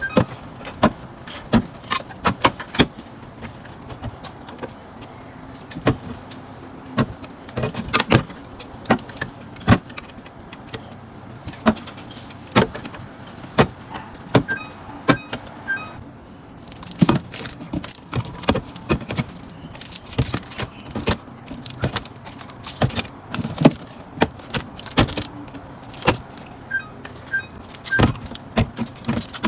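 Small plastic Yakult bottles clattering and knocking against each other and the fridge shelves as they are handled and set in place: irregular sharp clicks and clacks, busier in the second half.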